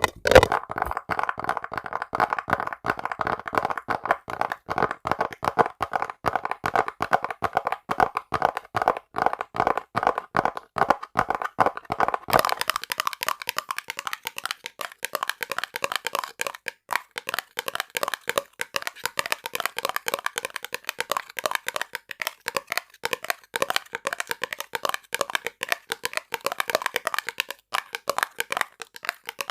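Rapid, quick-fire tapping on small objects for ASMR. About twelve seconds in it switches to a different object, and the taps turn brighter and thinner.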